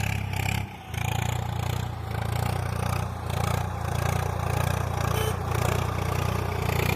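An engine or motor running steadily, a low pulsing drone that holds an even level throughout.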